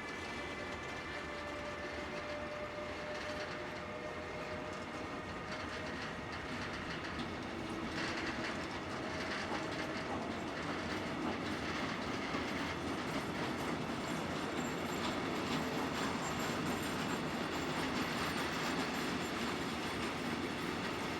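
A train running on rails: a steady running noise with a few faint steady tones that fade out about ten seconds in, growing slightly louder about eight seconds in.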